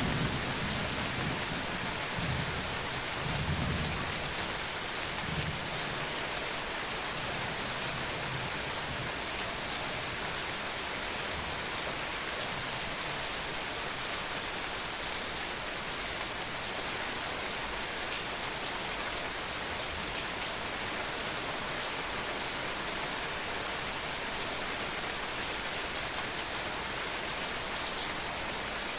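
Steady rainfall pattering on surfaces, with a low rumble of thunder dying away over the first few seconds.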